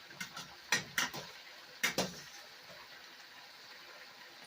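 Kitchenware knocking and clattering: about five sharp knocks in the first two seconds, partly in pairs, then only a faint steady background.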